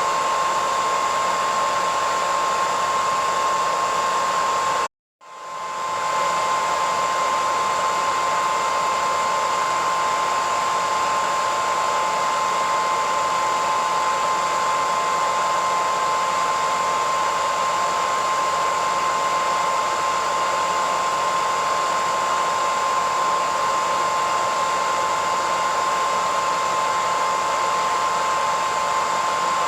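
Hair dryer running steadily: a rush of blown air with a steady whine. About five seconds in it cuts out completely for a moment, then fades back in.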